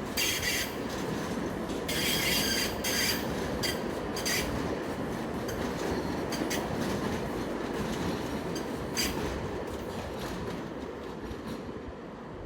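Light rail train running on its track, steel wheels squealing in several short high-pitched bouts over a steady rumble that fades toward the end.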